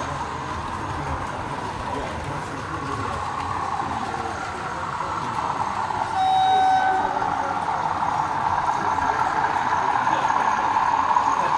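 A model locomotive's sound unit gives one short horn toot about six seconds in, over a steady hum of running model trains and hall chatter.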